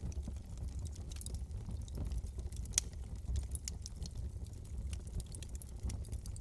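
Wood fire burning in a fireplace: a steady low rumble of the flames with irregular small crackles and pops, one sharper pop about three seconds in.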